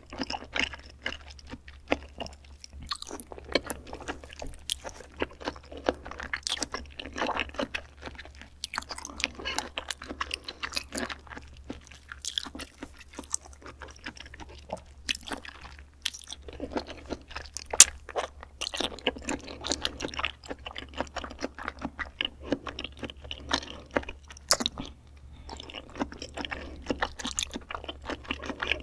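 Close-miked eating of raw beef spinal cord: wet chewing, sucking and lip smacks, dense with short sharp clicks throughout, one louder click about 18 seconds in, over a low steady hum.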